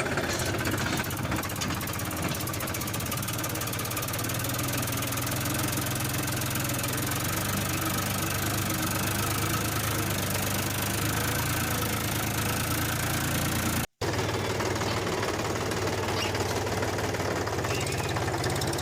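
An engine running steadily at an even speed. The sound drops out for a moment about 14 seconds in, then carries on the same.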